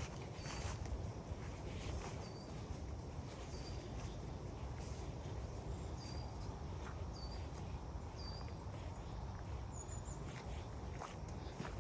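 Gusty wind rumbling on the microphone, with a small bird giving short high chirps about every second or two, and a few faint steps on leaf litter.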